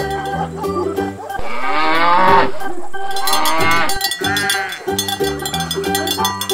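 Cow mooing sound effect, a long moo followed by shorter ones in the middle, laid over background music.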